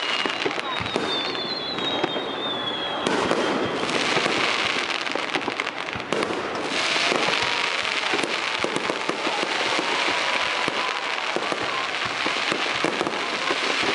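Fireworks display: aerial shells bursting and a dense, continuous crackling of sparks. A thin, slightly falling whistle sounds through the first few seconds.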